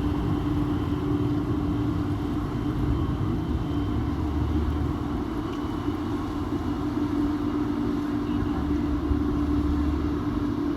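High-speed ferry's engines running steadily as it comes into port: a steady hum with a low rumble that swells twice.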